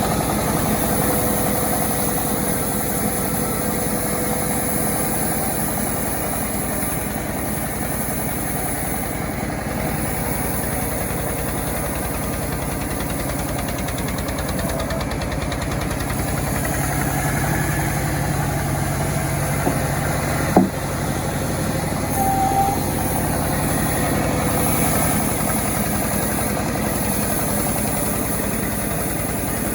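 Homemade chainsaw engine running steadily, with one sharp crack about two-thirds of the way through.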